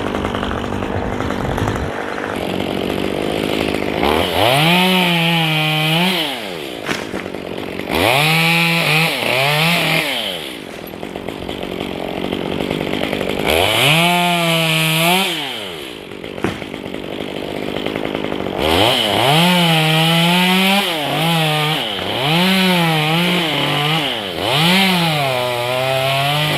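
Chainsaw revved up to full throttle and let back down about six times, each rev held for a second or two, idling roughly in between as it cuts wood.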